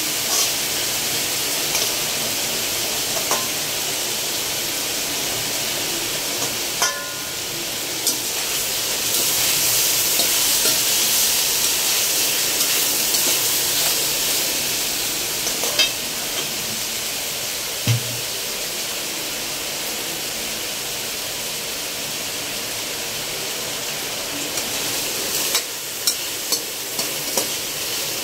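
Chicken pieces sizzling as they sauté with garlic, onion and ginger in a stainless steel wok, stirred with a spatula. The frying hiss is steady, with a few sharp clicks of the spatula on the pan, several of them near the end.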